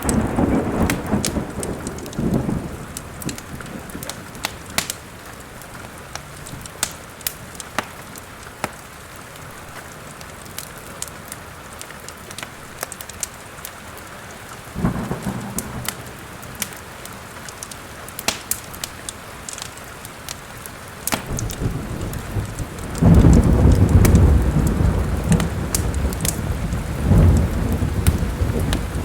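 Steady rain of a thunderstorm with a wood fire crackling and popping in a fireplace. Thunder rumbles at the start and briefly about halfway through, then a long, loud rolling rumble fills the last third.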